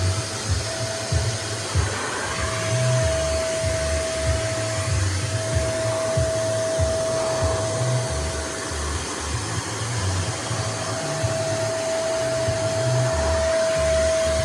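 Nunix wet & dry vacuum cleaner running in blower mode: a steady high motor whine over the rush of blown air, with an uneven low rumble underneath.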